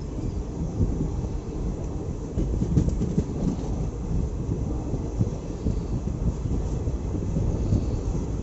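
Passenger train running on the rails, heard from on board: a dense low rumble of wheels on track with irregular knocks and clatter.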